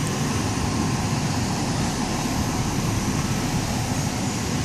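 Police cars idling: a steady low engine rumble with an even hiss over it.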